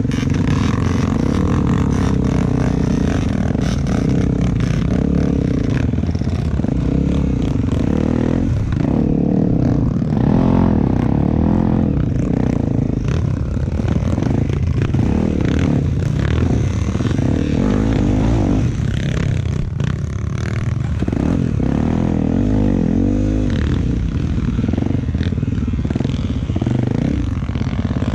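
Honda XR250 Tornado's single-cylinder four-stroke engine running under load, its revs rising and falling continually, with frequent rattles and knocks from the bike over rough ground.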